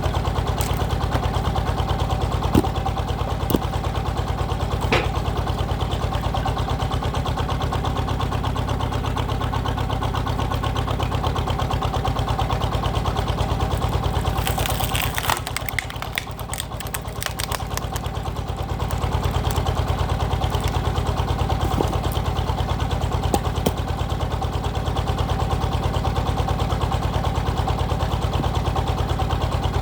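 Two-wheeled power tiller's single-cylinder diesel engine running steadily at idle, driving a hydraulic log splitter. About halfway the engine note drops for a few seconds, with a short cluster of sharp cracks, then it returns to its steady beat.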